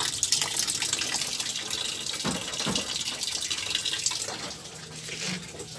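Drain water rushing out of a twin-tub washing machine, flowing freely now that the blockage in the drain has been cleared. The rush eases off about four seconds in.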